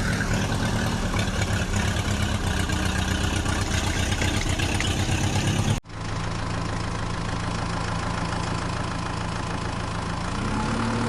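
Heavy vehicle engine running steady. About six seconds in it cuts abruptly to a second, smoother engine sound, which rises slightly in pitch near the end.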